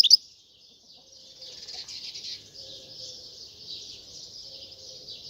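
A European goldfinch's song cuts off right at the start, leaving a faint, dense background of distant bird chirping.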